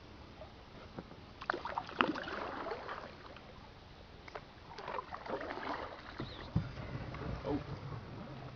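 Canoe paddling: two spells of splashing water and knocks against the canoe, a few seconds apart, over a low rumble.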